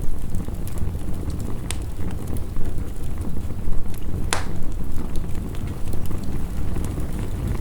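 Wood fire crackling, with scattered sharp pops and one louder pop about halfway through, over a steady low rumble.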